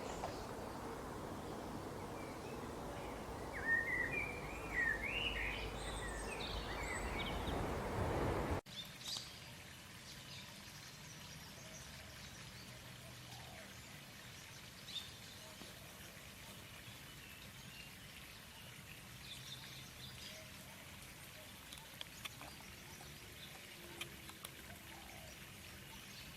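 Canary singing in quick rising and falling warbled phrases over a steady hiss; about eight and a half seconds in the hiss cuts off abruptly and only faint scattered chirps follow.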